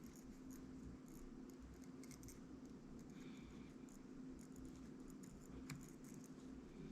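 Near silence: faint, scattered small clicks and scratches of hand tools working on an LED bulb's circuit board during desoldering, over a steady faint hum.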